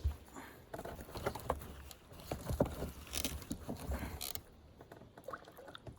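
Irregular tapping, scraping and knocking of fishing gear being handled in a kayak, with low thumps and a brief hiss about three to four seconds in.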